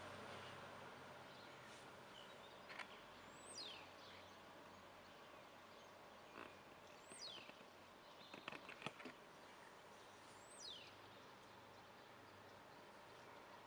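Faint outdoor quiet with a bird's thin, high whistle sliding downward, given three times a few seconds apart. A few soft clicks come through, the loudest cluster just past the middle.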